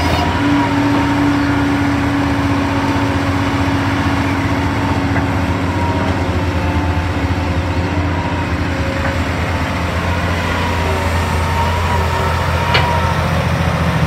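Hydraulic excavator's diesel engine running steadily under working load, with a low hum and a steady whine that fades after the first few seconds. A single short sharp knock sounds near the end.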